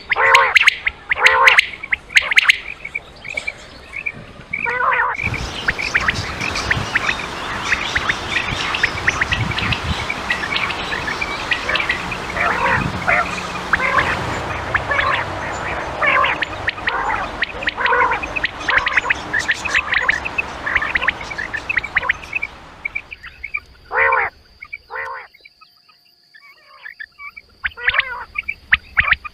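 Quail calls from a hunting lure recording. Spaced, repeated calls give way after about five seconds to a dense stretch of many overlapping calls, and near the end spaced single calls return.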